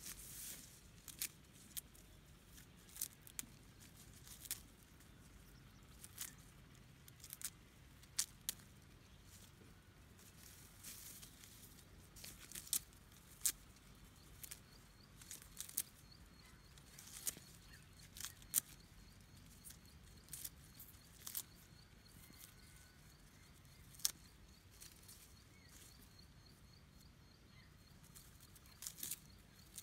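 Irregular sharp clicks and snips, roughly one or two a second, over a low background hum. About halfway through, a faint, evenly repeating high chirp sets in.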